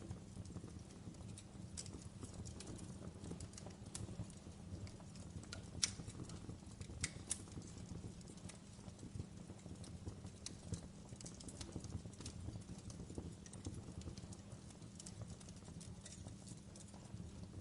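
Wood fire crackling in a fireplace: scattered sharp pops and snaps over a steady low rumble of the flames, with the loudest pops about six and seven seconds in.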